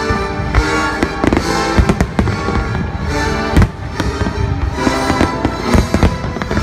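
Fireworks going off in quick, irregular bangs over music.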